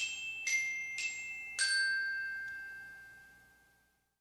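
A short run of struck glockenspiel-like chime notes, each lower than the last, about half a second apart; the last note rings on and fades away.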